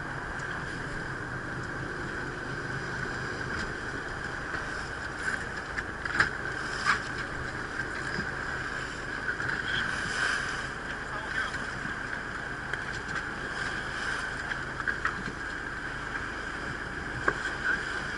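Ferry boat under way at sea: a steady drone of the boat's engine with wind and water noise, and a few sharp knocks about six and seven seconds in.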